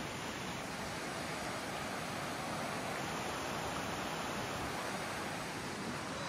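A steady, even rushing noise with no breaks or pitch.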